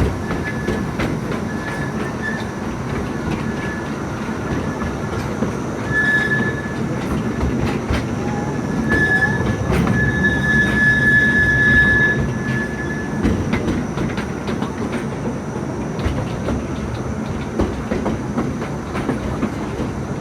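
Akasawa forest railway narrow-gauge train running, heard from on board: a steady rumble of wheels on rail with scattered clicks, and wheels squealing on the rails on and off, longest and loudest around the middle.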